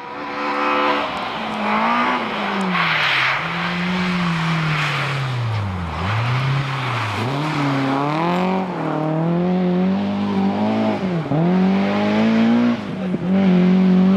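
Rally car engine driven hard on a stage, its pitch rising and falling repeatedly as it revs. The note drops sharply several times, about six, seven and eleven seconds in, then runs at a steadier pitch near the end.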